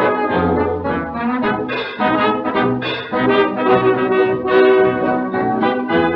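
A late-1920s dance orchestra playing an instrumental passage with the brass section to the fore, the notes changing quickly in a lively rhythm. It is heard from an old record with the top end cut off.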